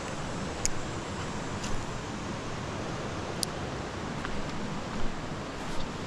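Creek water rushing steadily, with a few brief sharp ticks over it.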